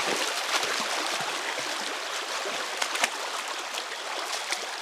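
Forest stream rushing steadily, with a few brief splashes.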